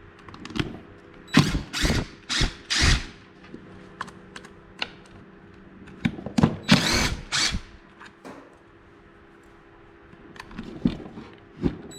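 Hand tools working on a Stihl MS 250 chainsaw during teardown: four short bursts of clattering tool noise about a second and a half in, then a longer burst around six to seven seconds, with small clicks in between.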